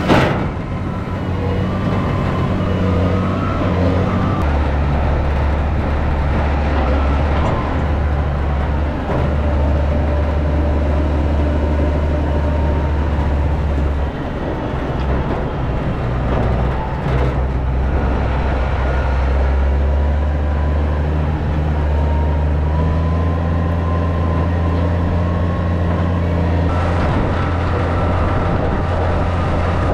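Engine of a large farm machine running steadily as a low, continuous drone, its pitch shifting slightly about four seconds in and again near the middle.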